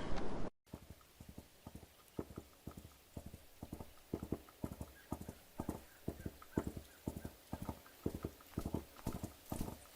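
A horse's hooves clip-clopping in a steady, even rhythm of several strikes a second, growing slightly louder. Before that, a louder rushing noise cuts off abruptly about half a second in.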